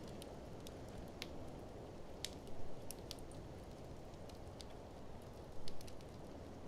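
Wood fire in a fireplace crackling with scattered sharp pops, over a steady low rush of blizzard wind. Two louder bursts of crackling come about two and a half seconds in and near the end.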